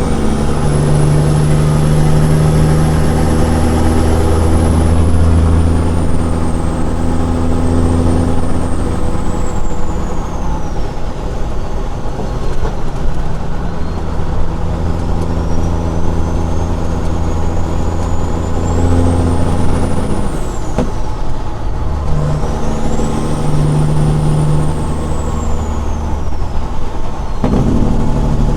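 Caterpillar 6NZ (3406E) inline-six diesel running through straight pipes, pulling steadily. A high whistle above the engine note rises and falls slowly, and the engine note breaks off briefly twice, about 20 and 27 seconds in.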